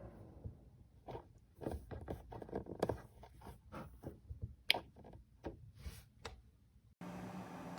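Irregular light clicks, taps and scrapes of something being handled, about twenty over five seconds, with one sharper click near the middle; a steady low hum comes in suddenly near the end.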